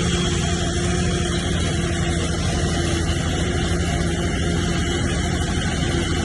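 Heavy diesel engine of earthmoving machinery running steadily at constant speed, a continuous drone with no change in pitch.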